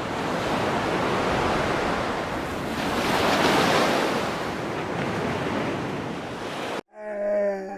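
A loud, steady rushing noise that swells a little in the middle, then cuts off abruptly. Just before the end a single held, pitched animal call begins.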